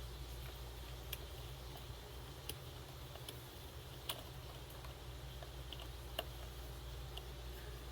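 Scattered light clicks and taps of small parts and hand tools being handled, a few seconds apart, over a steady low hum.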